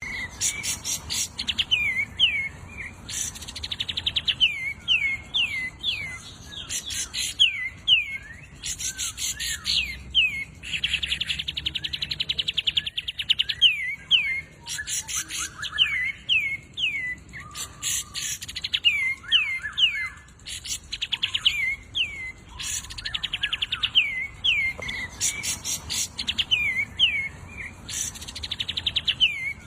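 A songbird's song, recorded and played back: fast dry rattling trills alternate with runs of three or four quick down-slurred whistles, repeated over and over.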